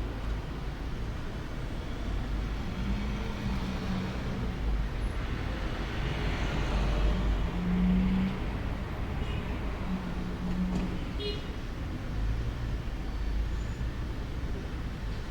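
Steady road traffic noise with a low engine rumble, swelling about six to eight seconds in as a vehicle passes.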